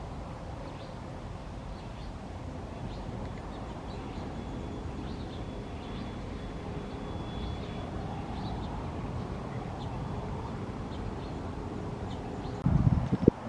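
Outdoor ambience: birds make faint, short, high chirps, repeated on and off over a steady low background noise. Near the end come several loud, low bumps.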